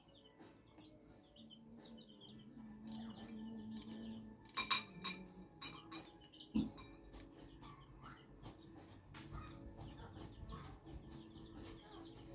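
Silver Laced Wyandotte chicks cheeping and hens clucking while they feed, over many sharp clicks and taps. The loudest clicks come a little under five seconds in, and there is a dull thump about six and a half seconds in.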